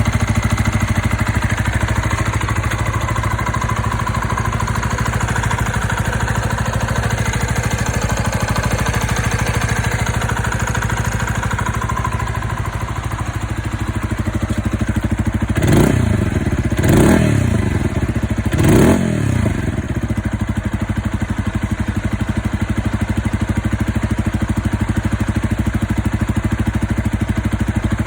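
Zontes ZT125 motorcycle's single-cylinder engine idling steadily through an aftermarket exhaust. It is blipped three times in quick succession a little past halfway, each rev rising and dropping back to idle.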